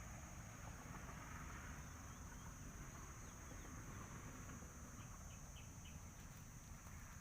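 Faint outdoor ambience: a steady high-pitched insect drone, with a few short faint bird chirps partway through, over a low rumble.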